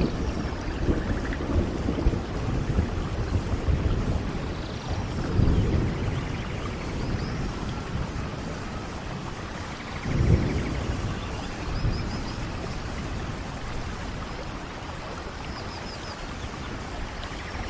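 Steady rain falling, with low rolls of thunder rumbling through it, the strongest about five and ten seconds in; the thunder dies away near the end, leaving the rain.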